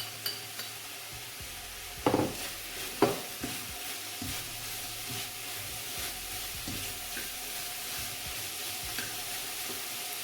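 Chicken and freshly added onion sizzling in a hot metal pot as they are stirred, without oil. A utensil knocks loudly against the pot twice, about two and three seconds in, followed by lighter scraping clicks.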